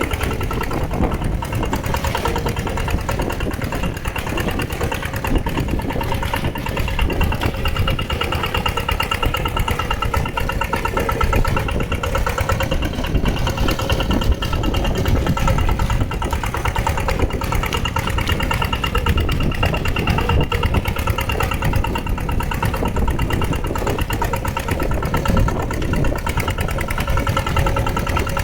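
Mini tractor's engine running steadily and evenly while it plows a flooded, muddy rice field.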